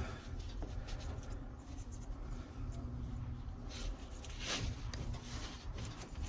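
Hand rubbing and scraping, a rag or tool wiping dried grease out of the inside of a dryer part. There are a couple of short, louder scrapes about halfway through.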